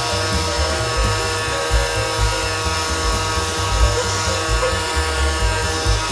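Makita 18V split motor with the A-76009 blower attachment running steadily on its high power setting: a steady whine made of several fixed tones over a rush of air.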